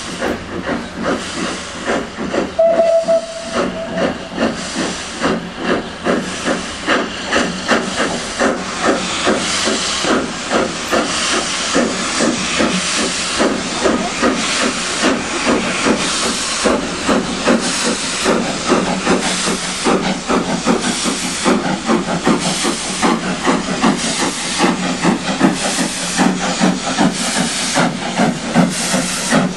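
Steam locomotive working hard, its exhaust beats chuffing in a steady rhythm that quickens as it gets under way, with a hiss of steam. A short blast on the steam whistle comes about two and a half seconds in.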